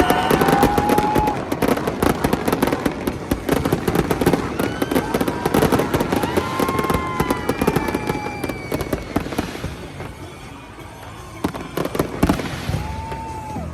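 Fireworks display going off in a rapid, dense barrage of overlapping bangs and crackles. It eases off about ten seconds in, then more bangs come near the end.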